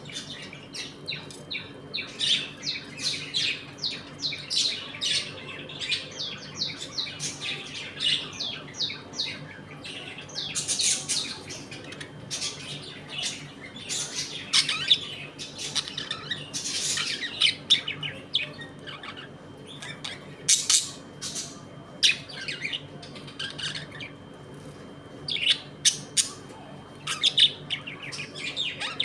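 A colony of budgerigars chattering with rapid, overlapping chirps, broken by louder sharp squawks now and then. A faint steady hum runs underneath.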